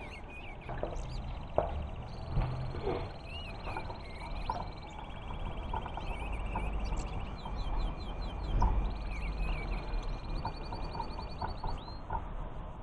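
Small birds chirping and trilling throughout, with short calls and fast repeated trills. A few sharp knocks and light scraping come from a wooden stick stirring silicone in a plastic cup, the loudest about a second and a half in and near two-thirds of the way through, over a steady low hum.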